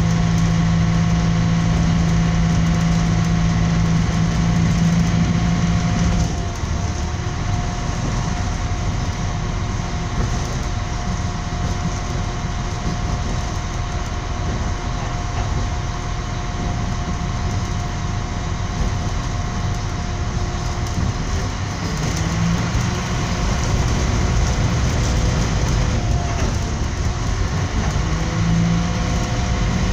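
Moving train heard from inside the carriage: a steady rumbling running noise with a low hum that drops away about six seconds in and briefly returns twice near the end.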